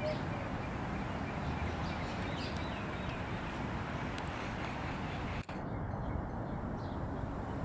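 Steady outdoor background noise, with a few faint bird chirps in the first few seconds and a brief dropout about five and a half seconds in.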